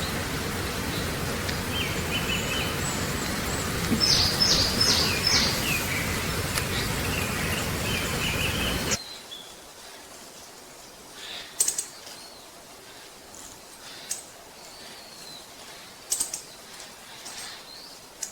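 Wild birds calling over a steady hiss of background noise, with a quick run of high notes about four seconds in. About nine seconds in, the sound cuts abruptly to a much quieter background with scattered short, sharp, high chirps.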